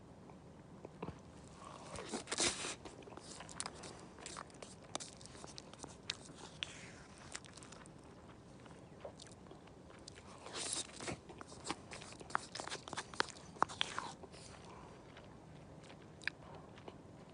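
Someone eating: irregular crunching and chewing in bursts, thickest about two seconds in and again from about ten seconds in, with scattered sharp clicks.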